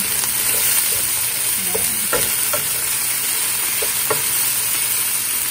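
Chicken pieces sizzling as they sauté with garlic and onion in a nonstick pan, stirred with a wooden spatula. A steady frying hiss with a few light knocks of the spatula against the pan.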